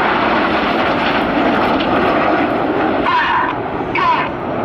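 Red Arrows BAE Hawk T1 jets flying overhead during the rollbacks manoeuvre: a steady, loud rushing jet roar. Two short pitched sounds rise briefly above it about three and four seconds in.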